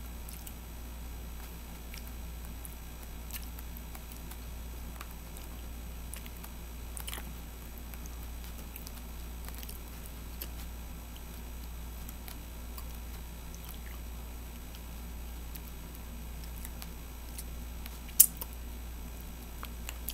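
Quiet chewing of a mouthful of cotton candy, with faint wet mouth clicks over a low steady hum, and one sharp click near the end.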